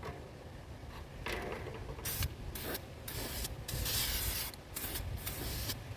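A Krylon Cover Max aerosol spray paint can spraying in several short hisses, the longest about half a second.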